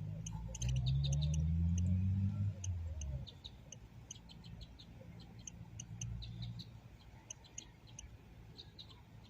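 European goldfinch twittering: a quick run of short, high chirps and trills. A loud low drone, rising in pitch, dominates the first three seconds and then fades away.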